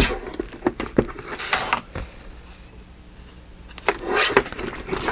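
Paper being handled on a craft table: a few light taps in the first second, then short rustling swishes, with a quieter lull in the middle.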